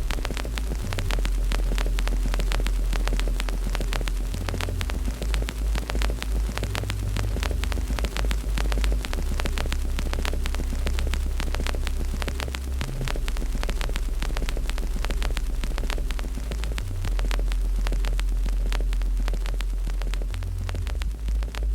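Wood fire in a fireplace crackling with dense, irregular pops over a steady low rumble.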